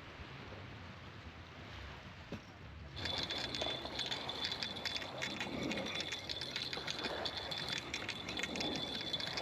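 Outdoor ambience with quiet, even noise. About three seconds in it cuts to louder ambience with a steady high-pitched tone and rapid crackling.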